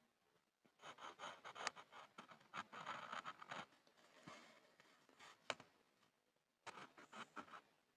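Pencil scribbling on a board: quick scratchy strokes in a dense run for the first few seconds, thinning out, then a short second run near the end.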